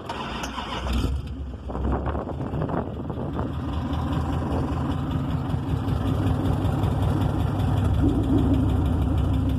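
Dodge Charger's engine idling through its new Magnaflow exhaust, getting a little louder toward the end.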